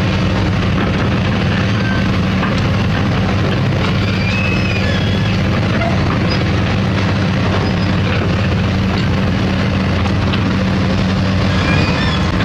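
Diesel engine of heavy construction machinery running steadily at constant speed, a deep even hum, with a few faint short high chirps over it.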